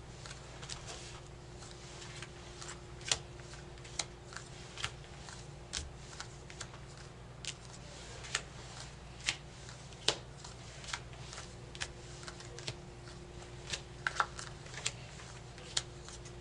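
Rook cards being dealt and laid down on a table one at a time: short, sharp card flicks at an uneven pace, about one or two a second.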